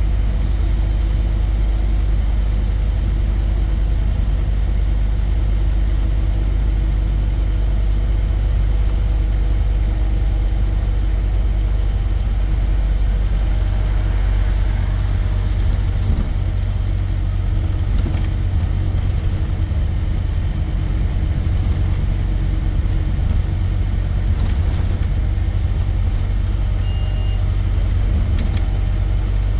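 Scania N230 bus engine running steadily, a continuous low rumble, with a short high beep near the end.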